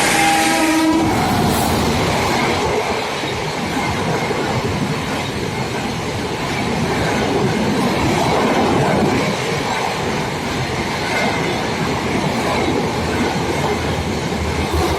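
A locomotive horn sounds and cuts off about a second in. A high-speed Rajdhani Express then rushes past, its coaches' wheels rumbling and clattering over the rails.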